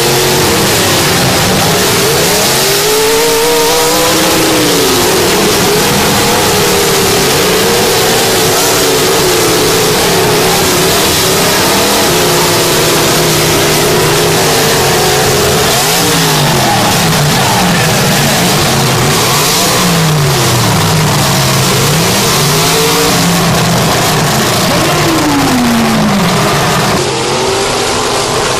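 Several demolition derby car engines revving hard at once, their pitches rising and falling against each other. It drops a little in loudness near the end.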